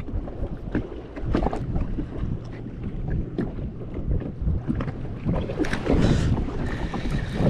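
Water slapping and splashing against a jet ski's hull, with wind buffeting the microphone; the splashing grows louder about six seconds in.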